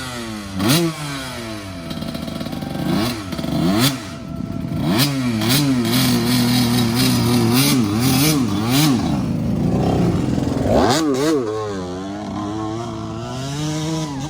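Dirt bike engine revving in short blips, then running at a steady speed for a few seconds, dropping off about ten seconds in and revving up again, with clattering over the top.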